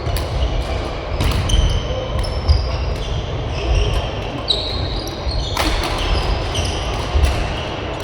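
Badminton rally on an indoor court: sharp racket strikes on the shuttlecock, shoes squeaking on the court floor and thudding footfalls.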